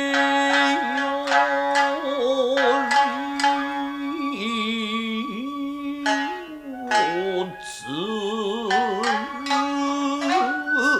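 Nagauta music: a singer holding long notes with a wavering, ornamented pitch over sharp plucked shamisen strokes.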